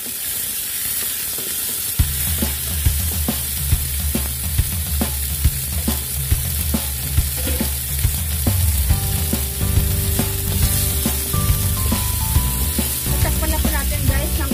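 Small bok choy sizzling in oil in a nonstick wok, with sharp ticks and pops about once a second, stirred with a wooden spatula at the start. Background music with a steady bass comes in about two seconds in.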